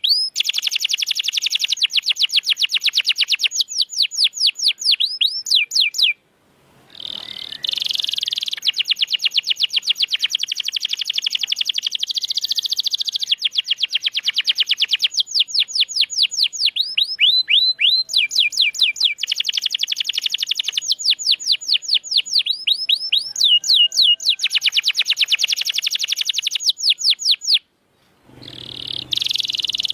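Domestic canary singing: long fast trills of repeated descending notes, one phrase following another, breaking off briefly twice, about six seconds in and near the end.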